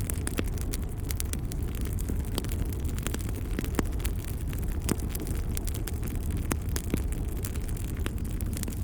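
Wood fire crackling in a fireplace: a steady low rumble of the flames with frequent sharp pops and snaps at irregular intervals.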